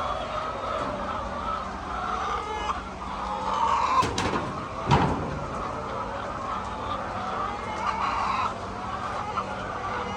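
Chickens clucking and calling, with two sharp knocks about four and five seconds in.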